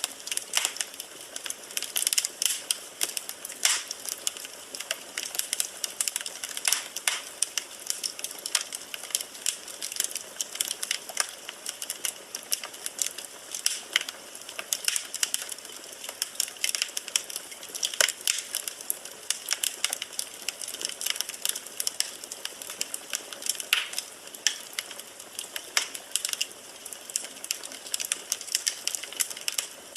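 Firewood burning in a fireplace, crackling: an irregular, dense run of sharp pops and snaps over a soft steady hiss.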